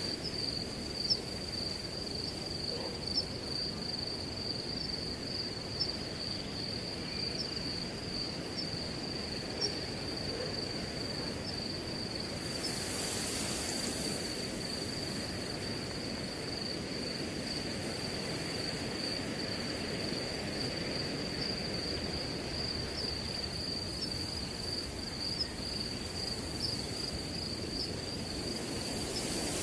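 Crickets trilling in one steady high note over the low rush of wind in grass, with a brief hissing gust near the middle.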